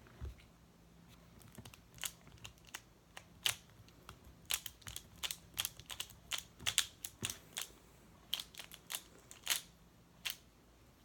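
Magnetic Pyraminx being turned rapidly by hand: a quick, irregular run of plastic clicks and snaps that grows denser from about four seconds in.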